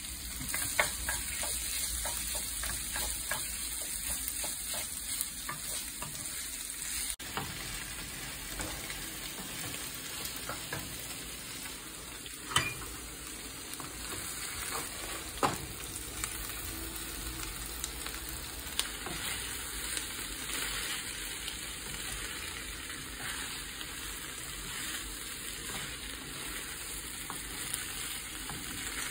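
Diced onions and bell peppers sizzling in a skillet, with steady frying hiss, while a wooden spoon stirs and scrapes through them. A few sharp knocks stand out, about a second in and again several times later.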